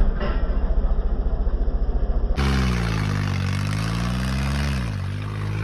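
Tractor diesel engine chugging with a rapid low pulsing beat, then cut suddenly about two and a half seconds in to a steadier engine drone whose pitch sags and then climbs back.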